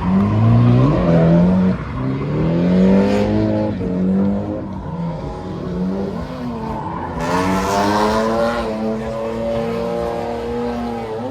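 Performance car engine revving hard several times, its pitch climbing and dropping, with a burst of hiss about seven seconds in.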